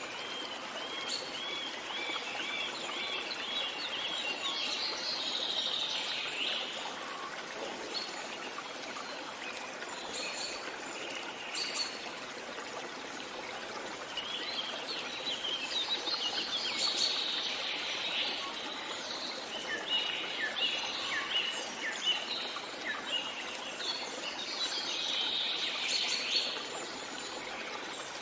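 Songbirds singing over the steady rush of a stream. Bursts of chirps and trills come in several separate spells.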